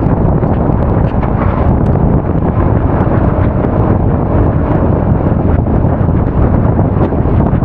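Loud, steady wind buffeting on an action camera's microphone while riding a Honda Forza 350 scooter at speed, a low rumbling rush that covers the engine.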